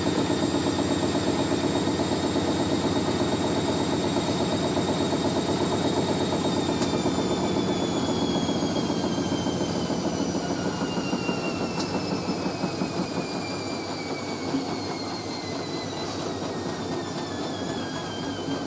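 Hoover A3060 Electronic 1100 washing machine spinning: a steady motor whine over drum rumble, which from about six seconds in falls steadily in pitch as the drum slows down, the sound easing off.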